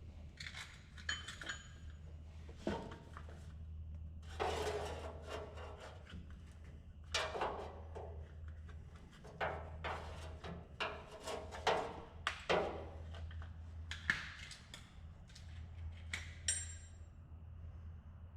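Metal hand tools clanking and clinking against one another and against metal, with a few short scrapes, as wrenches and sockets are handled and tried on the gas tank fittings under an old dump truck. A short metallic ring comes near the end, over a steady low hum.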